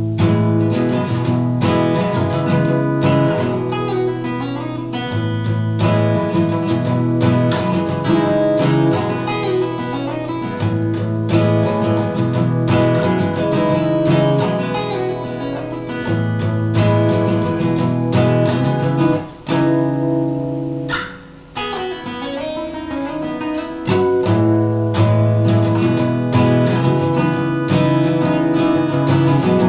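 Acoustic guitar music, strummed chords. It drops away briefly about two-thirds of the way through, then comes back.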